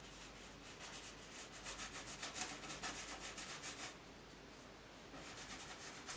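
Faint quick rubbing strokes of an art tool scrubbing on paper, many strokes a second, easing off about four seconds in and starting again near the end.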